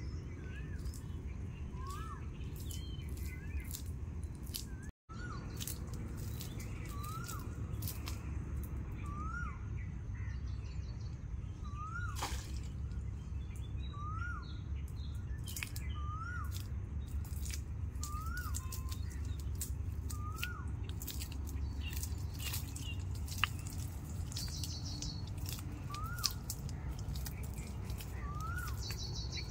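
A bird repeating a short call that rises then falls, about once a second, over a steady low rumble and scattered faint clicks. The calls pause for several seconds and then resume near the end.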